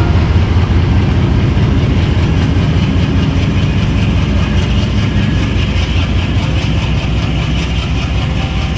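Passenger train running at speed, heard from on board: a loud, steady rumble of wheels on the rails with faint regular rail clicks.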